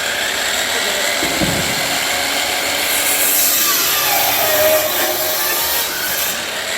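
Power saw running and cutting through a wooden framing board, the sound growing brighter and hissier in the middle of the cut.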